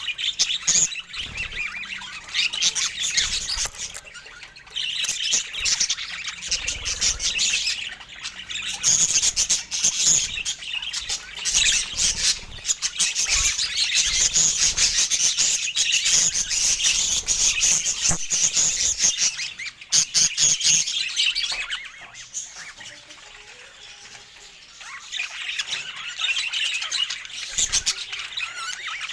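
Parakeets chattering and squawking, a rapid stream of high chirps and scratchy calls. It eases off for a few seconds about two-thirds of the way through, then picks up again.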